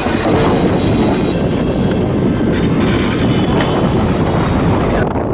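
Moving passenger train heard from on board: a loud, steady rumble of wheels on the track with wind on the microphone, and a few sharp clicks from the wheels.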